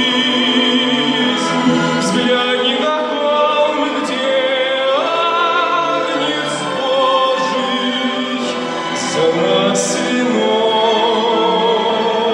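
Chamber orchestra playing a slow classical-style sacred song, with singing: held notes with vibrato.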